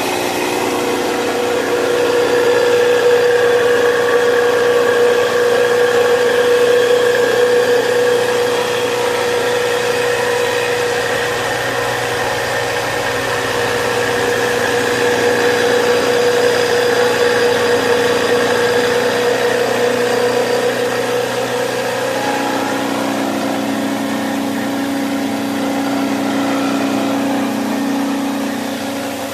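6W300 combined rice mill machine running on its 4 HP single-phase electric motor, a loud steady mechanical whine. About three-quarters of the way through, the tone shifts lower.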